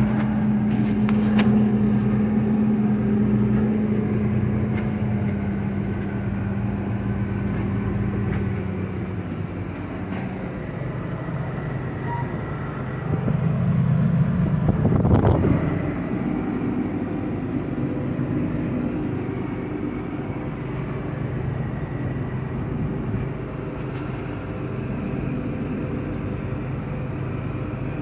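Diesel engine of heavy farm machinery running steadily with a droning hum. A steady tone in the drone fades out about a third of the way through, and just past halfway the sound briefly swells with a quick rise and fall in pitch.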